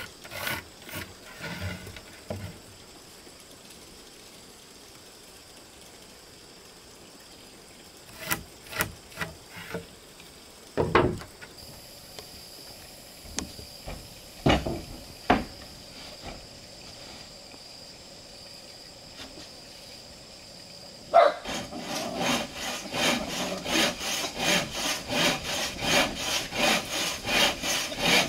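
Wood being knocked and handled with a few scattered knocks, then, about three-quarters of the way in, a hand saw starts cutting wood in steady back-and-forth strokes, about two a second.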